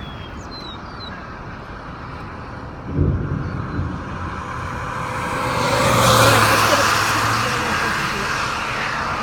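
Vehicle on the road: steady road and engine noise, a thump about three seconds in, then the noise swells and eases again with a low engine hum around six to seven seconds.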